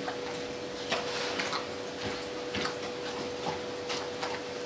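Dog eating food with gravy from a bowl: irregular soft clicks and smacks, over a steady faint hum.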